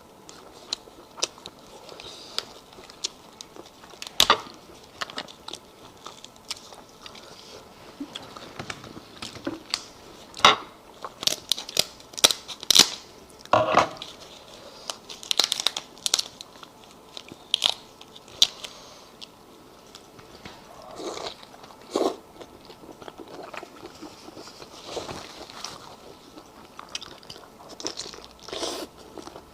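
A person eating lobster and shrimp close to the microphone: irregular sharp crunches and cracks with chewing between them, in clusters rather than a steady rhythm.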